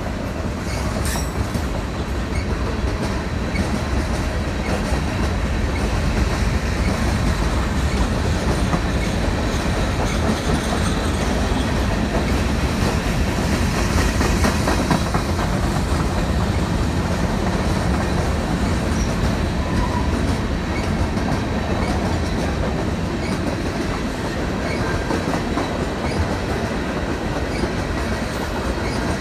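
Freight train's cars rolling past: a steady rumble of steel wheels on the rails with a rhythmic clickety-clack of the wheels.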